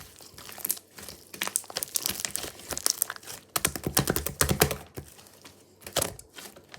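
Something crinkly being handled and squeezed close up: crinkling and rustling that comes in uneven spurts, busiest around the middle.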